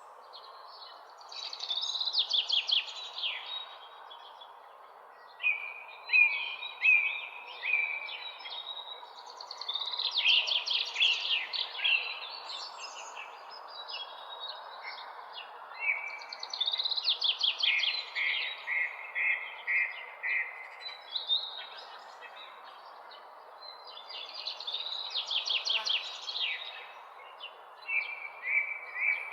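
Songbirds singing: short phrases of quick, high, descending notes and trills, one every several seconds, over a steady background hiss.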